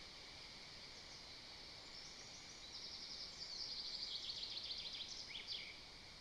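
A small songbird singing one rapid, high-pitched trill of about three seconds that starts about two seconds in and ends in a couple of quick downward notes, over a steady faint outdoor hiss.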